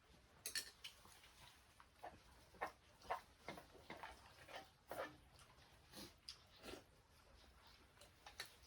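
Faint, irregular soft clicks and taps, roughly one or two a second, with no steady sound beneath them.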